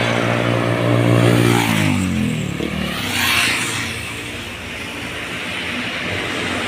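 A heavy truck passing close by: its engine note holds steady, then drops in pitch as it goes past, followed by a brief rush of tyre and wind noise.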